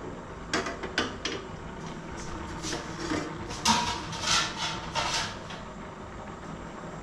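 Kitchen clatter of pots and utensils being handled: a few sharp knocks, then a run of short scrapes and clinks.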